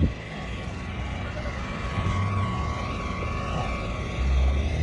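Low, steady rumble of a vehicle engine that grows louder about four seconds in.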